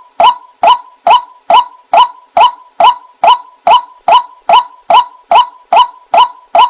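White-breasted waterhen calling from a bird-lure recording: a sharp note repeated very evenly about twice a second. A faint steady high tone runs underneath.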